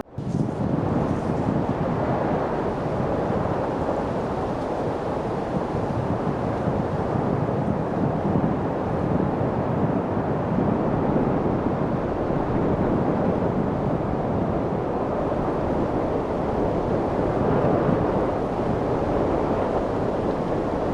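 Steady light wind: an even rushing noise with no gusts or distinct events, broken by a momentary dropout at the very start.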